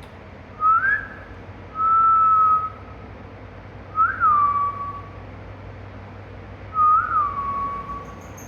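Ringneck parrot whistling: four short, clear whistles a second or two apart. Some rise quickly and then slide down in pitch, and one is held at a steady pitch.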